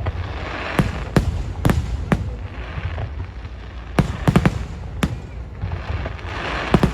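Aerial fireworks display: shells bursting in sharp bangs, several in quick clusters, over a steady background hiss.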